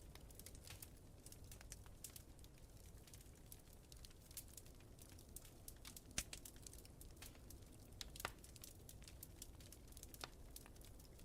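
Wood fire crackling faintly, with irregular small pops and two sharper pops about six and eight seconds in, over a low steady rumble.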